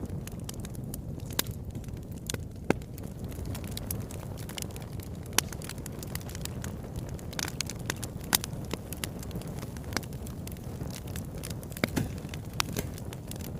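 Wood fire burning in a fireplace: a steady low rumble with irregular sharp crackles and pops, a few louder snaps among many small ones.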